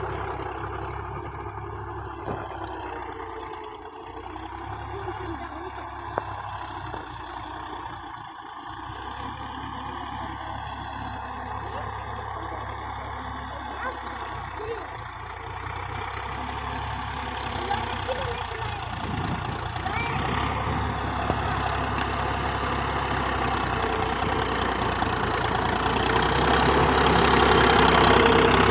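Tractor diesel engine running steadily, growing louder over the last several seconds.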